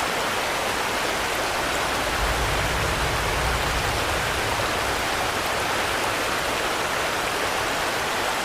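Steady rain, an even dense hiss, with a low rumble swelling for about two seconds a couple of seconds in.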